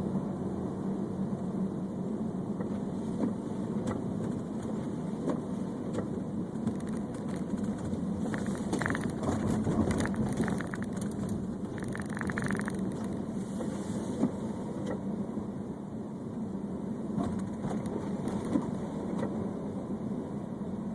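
Steady engine and road noise heard from inside a moving car's cabin, with a low hum. A patch of short crackling clicks comes about halfway through.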